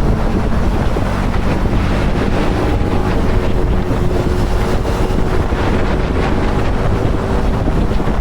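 KTM Duke 250 motorcycle's single-cylinder engine running at a fairly steady pitch while riding, largely buried under heavy wind noise on the camera's microphone.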